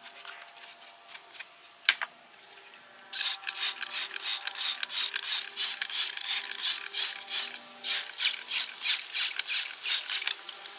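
A hand tool worked in quick, even back-and-forth strokes, about four a second, with a single click shortly before the strokes begin.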